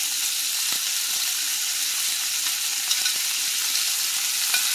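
Chicken pieces frying in oil in a hot skillet: a steady sizzling hiss, with a few light clicks as metal tongs drop sautéed peppers and onions back into the pan.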